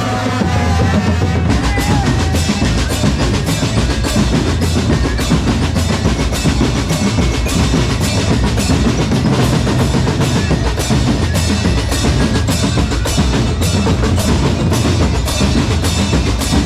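Drum corps percussion playing: bass drums and snare drums beating a steady, driving rhythm.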